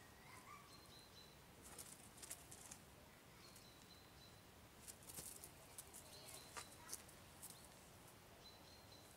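Near silence: faint bird chirps, with a few soft scratches and rustles around two seconds in and again between five and seven and a half seconds in.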